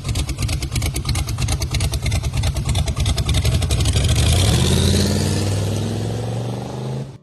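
Car engine revving, with a rapid pulsing exhaust note. About four seconds in the pitch climbs and holds high, then it cuts off suddenly.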